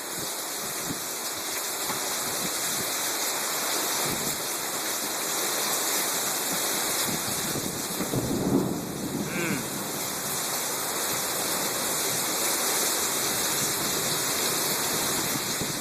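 Heavy thunderstorm downpour, rain pouring steadily. About eight seconds in there is a brief louder swell.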